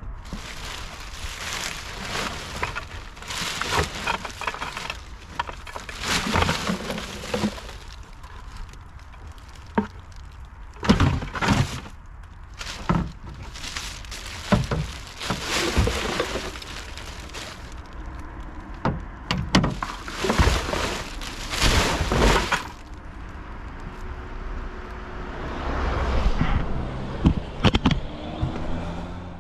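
Collected roadside trash being handled and dumped: irregular rustling with repeated sharp clatters and crunches of cans, bottles and plastic, busiest in the middle and again near the end.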